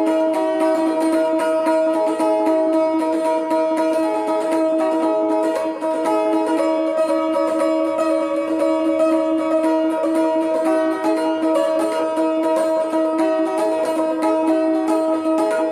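Phin, the Isan plucked lute, playing a fast picked melody over a steady open-string drone.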